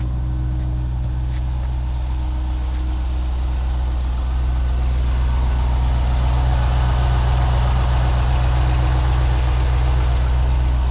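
2004 Chevrolet Corvette Z06's LS6 V8 idling steadily through its exhaust, getting a little louder about four seconds in.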